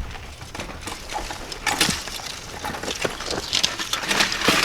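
Scuffing and rustling of people clambering over a fence, heard as irregular short scrapes. The loudest cluster comes near the end.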